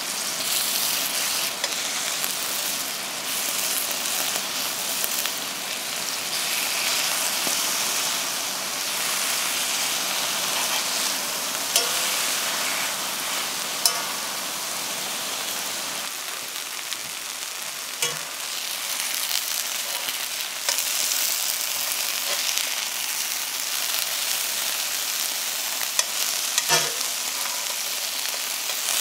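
Aubergine wedges sizzling steadily in a pan of bubbling honey and soy glaze as they are stirred, with a few sharp clicks of utensils against the pan.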